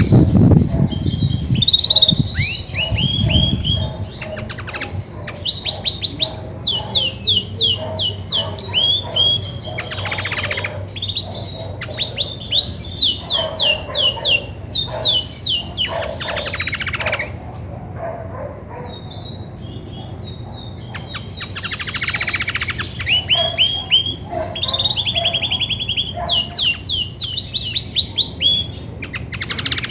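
Female Belgian canary singing: phrases of fast trills made of quick downward-sweeping notes, repeated again and again, the kind of heavy singing the breeder says a hen does when she is ready to brood.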